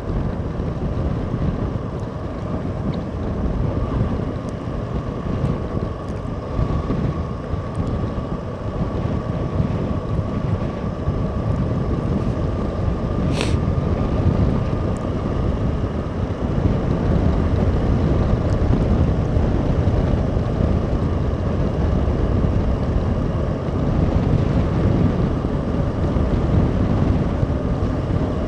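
Heavy wind buffeting the microphone while a Suzuki V-Strom SX 250 motorcycle is ridden through a snowstorm. A steady high whine runs through it, and there is one sharp click about halfway through.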